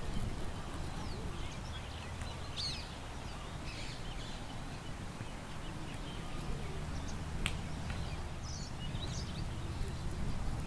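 Small songbirds chirping and trilling now and then over a steady low rumble of wind, with a single sharp click a little past the middle.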